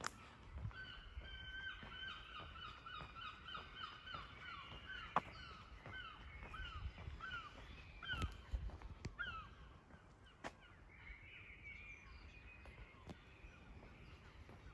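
Birds calling: a long run of harsh, evenly repeated call notes, about three a second, that stops about two thirds of the way through, followed by a fainter call.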